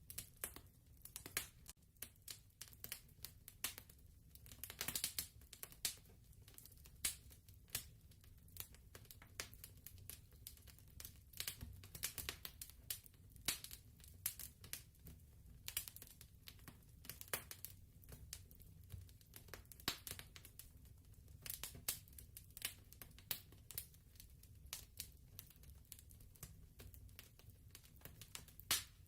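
Soft fireplace crackling: irregular sharp pops and snaps, sometimes in quick clusters, over a steady low rumble.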